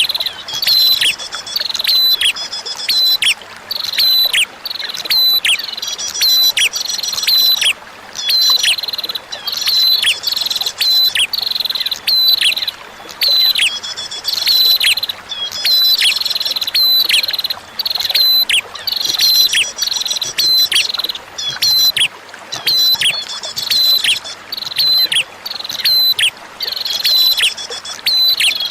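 Prenjak (prinia) singing: a long run of sharp, high chirps with quick downward sweeps, in bursts broken by short pauses every second or two. Faint flowing water runs beneath.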